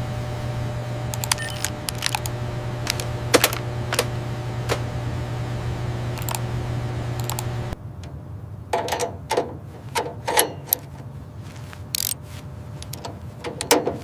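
A steady low hum with scattered sharp clicks and taps over it. The hum cuts off suddenly about eight seconds in, leaving irregular clicks and knocks.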